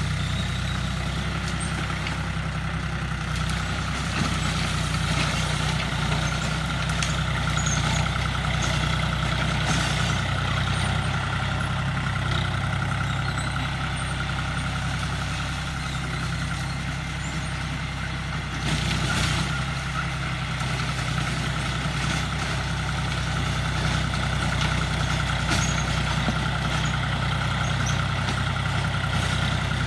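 Tractor engine running steadily under load while driving a rotary tiller, with a steady higher whine above the low engine note.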